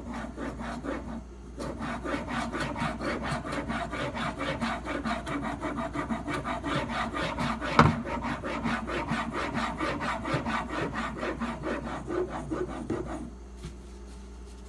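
Stainless steak-knife blade, clamped in a sharpening guide, stroked back and forth on a sharpening stone: a steady run of quick, even scraping strokes, with one sharper knock about halfway, stopping about a second and a half before the end.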